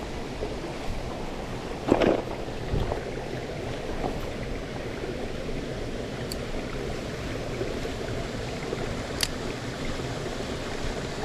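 Mountain stream water running steadily, with a brief louder sound about two seconds in and a couple of faint clicks later.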